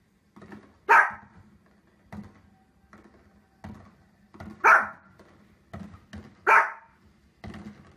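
Small dog barking, three loud sharp barks: one about a second in and two more in the second half, under two seconds apart, with fainter short sounds between them.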